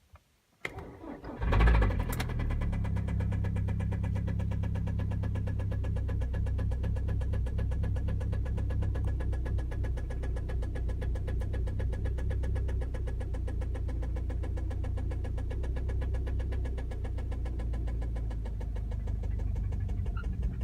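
Hyundai ix35 engine cranking and catching under a second in, with a brief rev as it fires, then idling steadily with a fast, even knocking that runs all through the idle. This knock is the one the owner is asking about, cause unknown. The engine cuts off at the very end.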